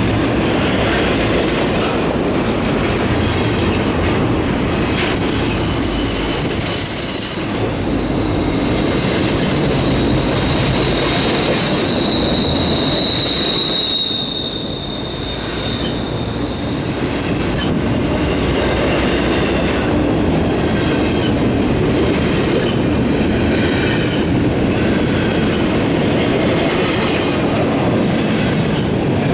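Cars of a long freight stack train rolling past, wheels clattering over the rails. A thin, very high wheel squeal sounds a few seconds in, then a lower steady squeal holds for several seconds through the middle.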